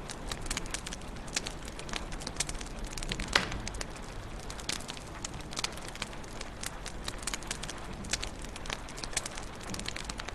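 Wood fire in a fireplace crackling: frequent irregular pops and snaps over a steady soft hiss and low rumble, with one louder pop about three seconds in.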